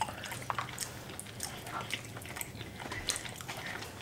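People chewing soft tacos with their mouths close to the microphone: irregular small wet clicks and smacks.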